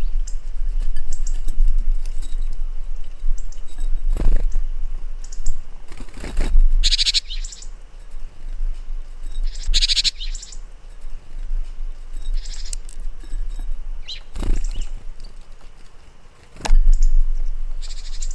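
A wild bird giving loud, harsh, scratchy calls, two strong ones about 7 and 10 seconds in, with fainter short calls between. Under them runs a steady low rumble, broken by a few sharp knocks.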